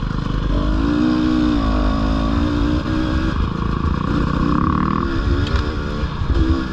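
Dirt bike engine running under throttle while being ridden, its pitch rising and falling as the throttle is worked, over a steady low rumble.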